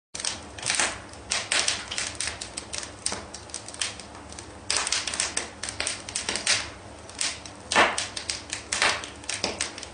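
Bricklaying: a trowel scraping mortar and tapping bricks into place, heard as an irregular run of sharp clicks and short scrapes.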